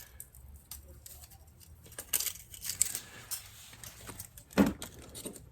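Light metallic clicks and scrapes of a feeler gauge set being handled, as a 9 thou blade is picked out and worked in under a valve-train cam lobe to check clearance.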